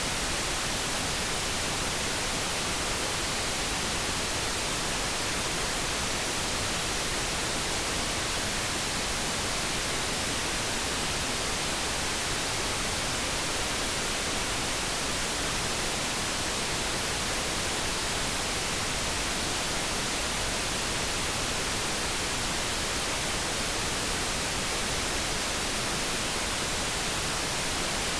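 Steady synthetic background noise: an even, unchanging hiss with no tones or breaks.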